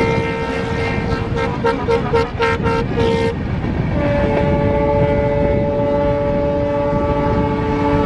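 Locomotive air horns sounding over the rumble of a moving train: a long blast breaking into a string of short toots, then a long, steady blast on a different-pitched chord.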